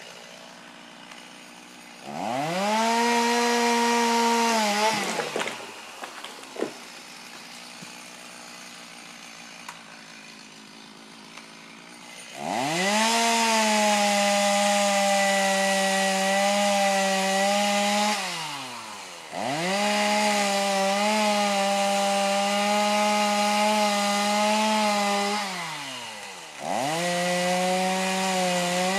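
Two-stroke chainsaw engine run up to full throttle and held there four times, each run a few seconds long, dropping back to a quiet idle in between.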